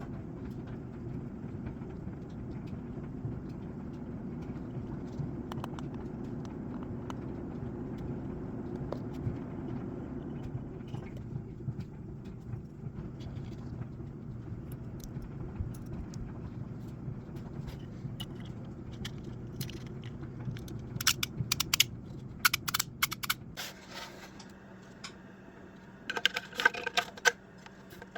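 A steady low mechanical hum that stops a few seconds before the end, with clusters of sharp clicks and rattles of hard objects near the end.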